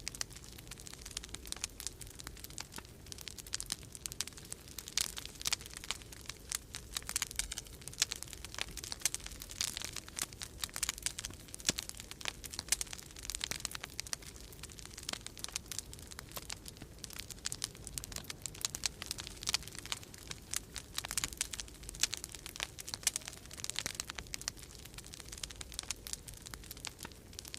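Wood fire in a fireplace crackling, with dense irregular pops and snaps, over a low steady rumble of storm wind.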